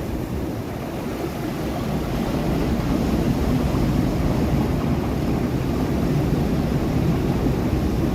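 Sea surf breaking and churning against rocks, a steady low rumble of water that swells over the first few seconds and then holds.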